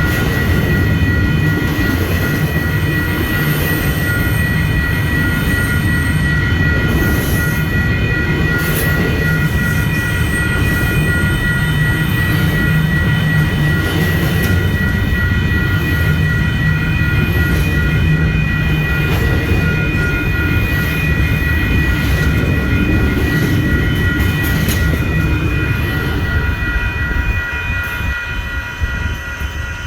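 A train passing close by: a steady low rumble of wheels on rail, with a high, steady squeal of wheels held throughout and a few sharp clacks about a third of the way in. The sound begins to fade over the last few seconds.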